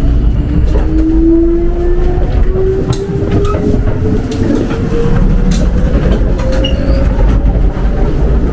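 Electric train running: a steady low rumble with a motor whine that rises slowly in pitch as it gathers speed, and scattered clicks from the rails.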